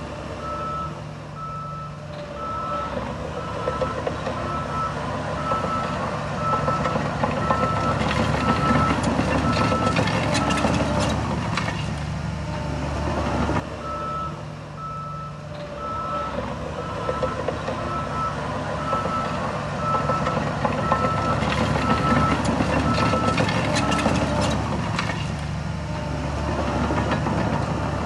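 A heavy machine's reversing alarm beeping steadily over a running diesel engine, in two runs of about ten seconds each, with clanking and rattling as each run of beeps ends.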